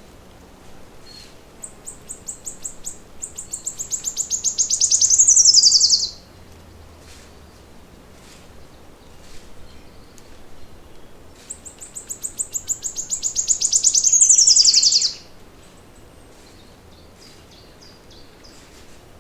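A songbird singing two songs, each a high, rapid trill of repeated notes that grows louder over about four seconds and ends in a quick downward sweep. Faint short chirps come between the songs.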